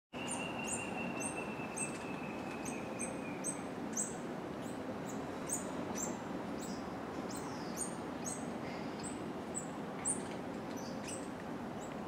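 A bird repeating short, very high-pitched calls about twice a second, over a steady background hum. A thin, steady high tone sinks slightly and fades out a few seconds in.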